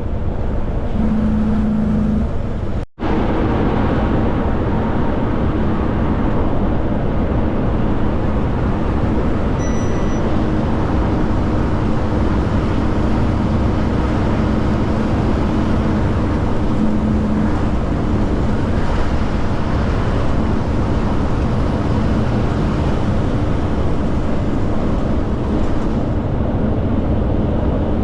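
Kenworth K200 cab-over truck's Cummins diesel engine running steadily at highway speed, with road and wind noise, broken by a brief dropout about three seconds in.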